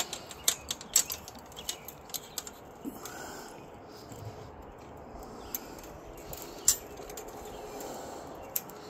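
Sharp clicks and rattles of a chicken pen's gate and its locks being closed and fastened, thickest in the first few seconds and then scattered.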